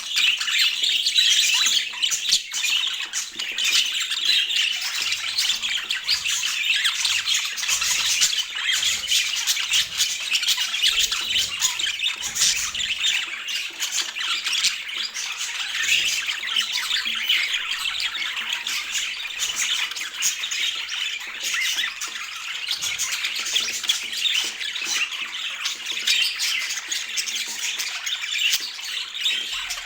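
Pet budgerigars chattering and squawking without a break, a dense stream of short high calls.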